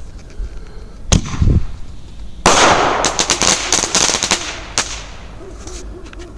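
Consumer mini artillery shell firework: a sharp thump as the shell launches from its mortar tube about a second in. About a second later the shell bursts loudly in the air, followed by around two seconds of sharp crackling.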